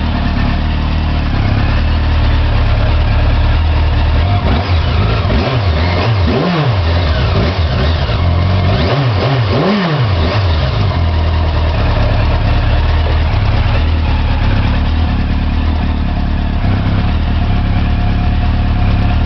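1988 Yamaha FZ750's inline-four engine idling steadily, revved up and back down a few times around the middle before settling back to idle.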